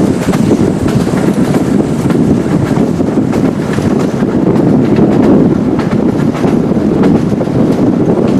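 Old-style locomotive-hauled passenger coach running along the line, heard from its open window: a steady noise of the wheels on the rails, with faint irregular clacks.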